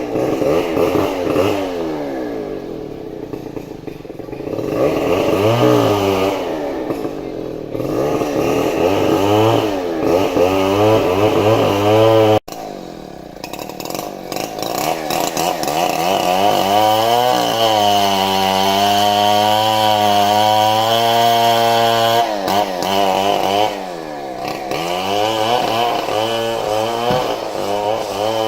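Stihl chainsaw's two-stroke engine revving up and down again and again while cutting into a large trembesi trunk. In the second half it holds at high speed for several seconds, then dips and picks up again. The sound breaks off for a moment about twelve seconds in.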